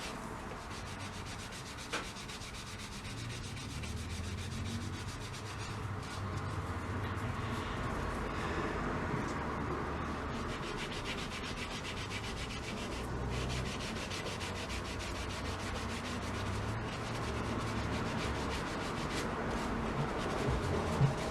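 Steady scrubbing and rubbing as a part of a vintage gumball machine is rubbed clean, with one short click about two seconds in.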